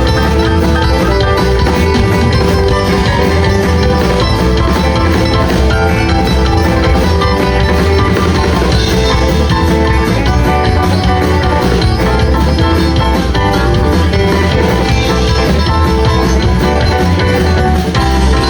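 Live band playing loud, steady music with guitar to the fore over bass, with no singing.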